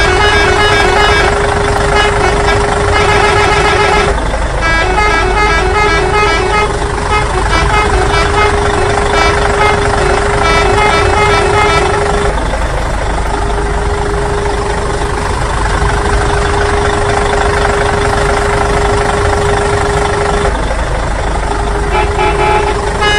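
Motor-vehicle sound effect: a steady low engine rumble with a long held horn-like tone that breaks off briefly about every eight seconds.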